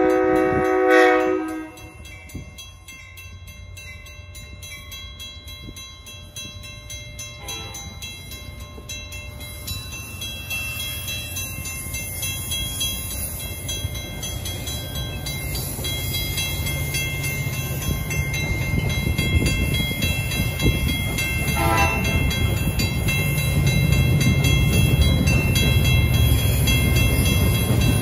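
A train horn sounds a multi-note chord and cuts off about a second and a half in. Then a low diesel rumble builds steadily as freight locomotives approach, with a faint short horn note about three-quarters of the way through.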